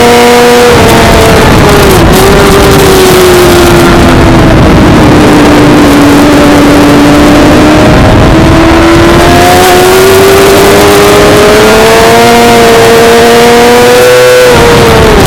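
Suzuki GSX-R600's inline-four engine, heard onboard under heavy wind noise. The revs drop after about a second and stay low through the middle. They then climb steadily, with a brief drop near the end, like a shift.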